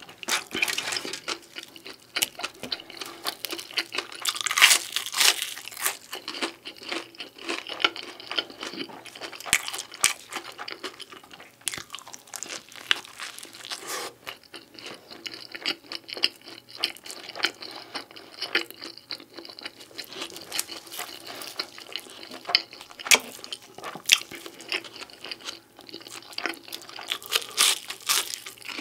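Beef pizza being chewed close to the microphone: crisp crust crunching in a dense run of short, irregular crackles, with wet mouth sounds between bites.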